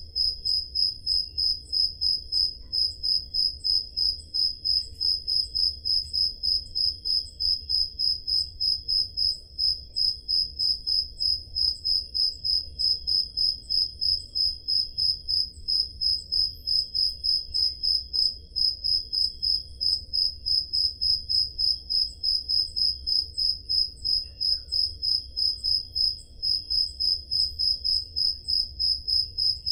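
Crickets chirping: one loud cricket close by gives a high-pitched chirp repeated evenly about three times a second, with fainter crickets trilling behind it.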